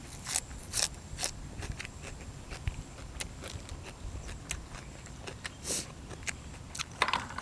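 Close-up crunchy chewing of boiled apple snail meat: an irregular run of crisp crunches and clicks, with a few louder crunches near the start and close to the end.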